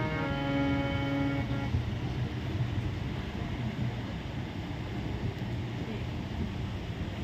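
A held musical chord dies away under two seconds in, leaving a steady low rumble of background noise with no tune.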